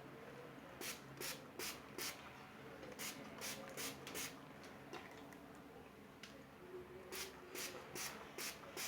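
Trigger spray bottle misting a herbal water rinse onto hair and scalp, in three runs of four or five quick squirts, about two and a half a second.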